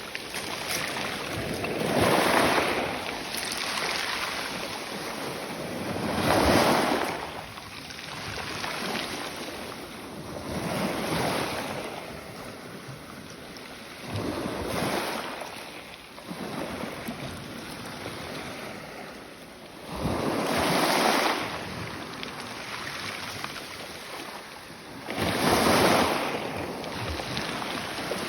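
Ocean waves breaking and washing up the beach, a swell about every four to five seconds.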